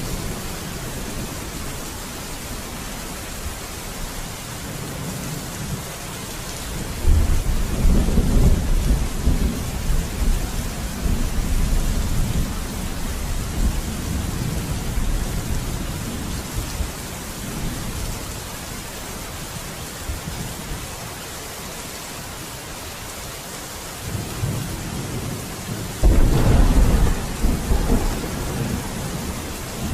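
Steady rain falling through a thunderstorm, with two rolls of thunder: a deep rumble starting about a quarter of the way in and fading over several seconds, and another building near the end and breaking loud.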